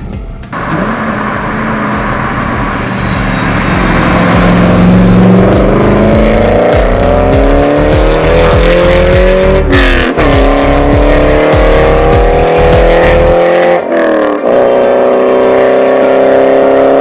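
Corvette V8 engine accelerating hard through the gears, its note climbing steadily and dropping back at two upshifts in the second half.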